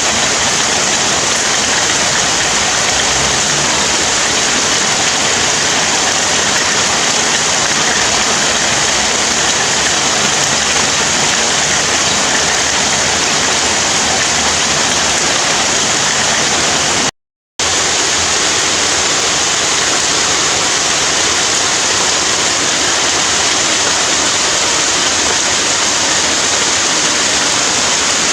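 Heavy rain falling steadily in a dense, even hiss. It cuts out completely for a moment about seventeen seconds in.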